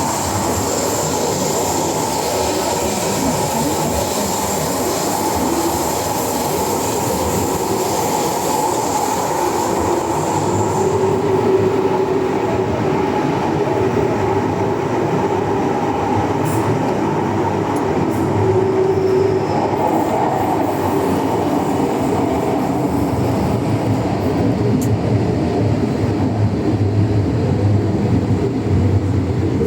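MTR M-Train metro train running, a steady rumble of wheels on rail and traction equipment. A thin high tone stops about ten seconds in, and the running noise gets a little louder after that.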